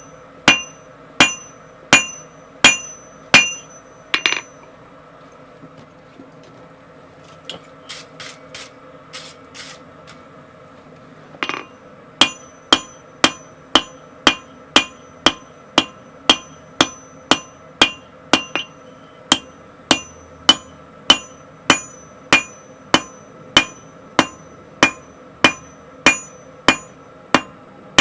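Hammer blows forging steel on an anvil, each strike ringing, at about two blows a second. The hammering stops for a few seconds, with a few lighter taps, then resumes at the same steady pace.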